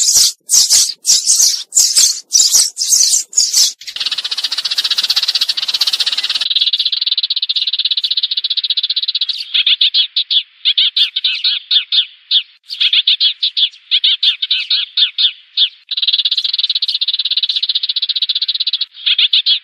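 Sparrow calls played as a trapping lure to call in a flock: a run of loud, sharp chirps, then about four seconds in a buzzy rattle, then rapid trilling chatter in bouts broken by short gaps.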